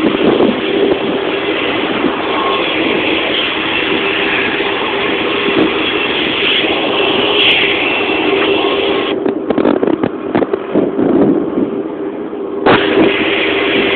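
Aircraft engines running, heard from inside the cabin as a loud steady noise with a steady hum. About two thirds of the way through the sound turns muffled for a few seconds, then comes back abruptly at full strength.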